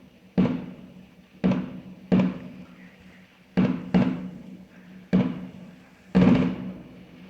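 Fireworks going off: seven loud bangs at uneven intervals, each trailing off in an echo, the last one the biggest and longest. A faint steady hum runs underneath.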